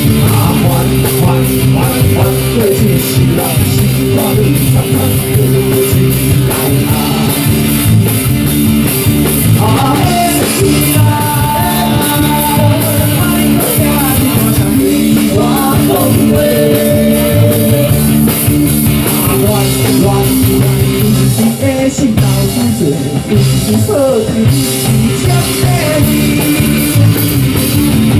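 Live rock band playing with drum kit, bass and electric guitar, a lead line bending in pitch over the steady beat.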